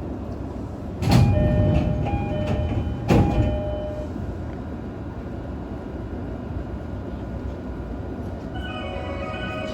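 Onboard running sound of a JR East E531 series electric train, with a steady rumble from wheels and rails. About a second in and again about three seconds in, the sound suddenly surges loud and fades over a second or so, with steady tones through it. Near the end a set of steady whining tones comes in.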